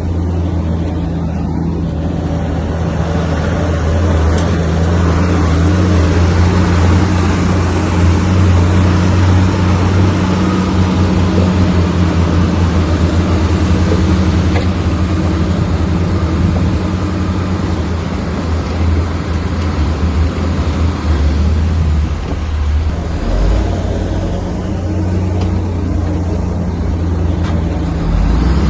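Bulldozer's diesel engine running steadily under load, its low note wavering and dipping about two thirds of the way through.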